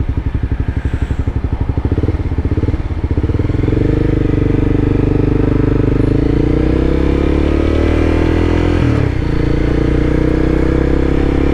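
Sport motorcycle engine idling at a stop, then pulling away about three seconds in, its note rising steadily as it accelerates. The note dips briefly near the end.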